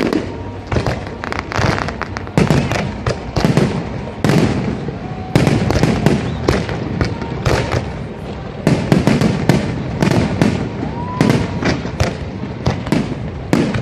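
Fireworks and firecrackers going off in rapid succession, a continuous run of overlapping sharp bangs and crackles.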